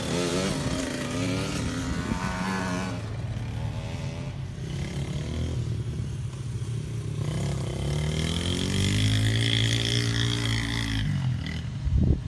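Small motocross bikes' engines revving, their pitch climbing and falling as they go past. A stronger rise-and-fall pass comes from about eight seconds in, and there is a short loud burst near the end.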